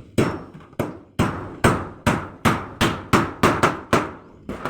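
Hammer striking repeatedly, about a dozen sharp blows at roughly three a second, each with a short ringing tail, as in building repair work.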